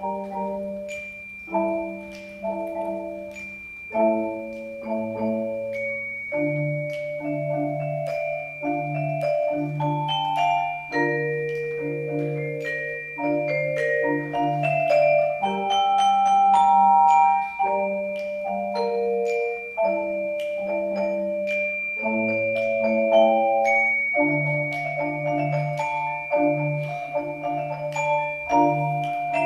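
Percussion ensemble playing mallet instruments: marimbas strike repeated chords over low sustained bass notes, with glockenspiel and vibraphone notes ringing above.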